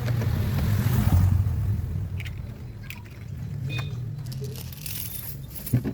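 Honda Civic Genio's engine running with a low steady hum that swells briefly about a second in, with a few light clicks.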